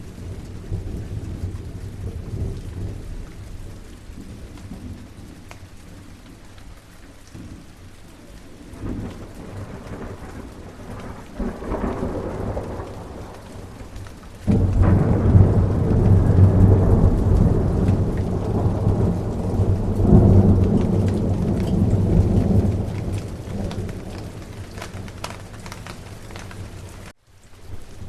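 Steady rain with rolling thunder. The rumble builds around the middle into a sudden loud peal, swells again a few seconds later and fades away. The sound cuts out for an instant near the end.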